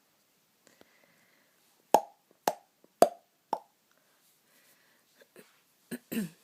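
A string of sharp plopping pops, four of them about half a second apart, then a few fainter ones near the end.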